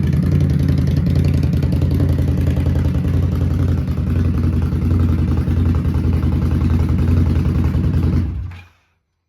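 2017 Indian Scout's liquid-cooled V-twin running steadily through short aftermarket shorty mufflers, a loud, deep exhaust note. The sound cuts off about eight and a half seconds in.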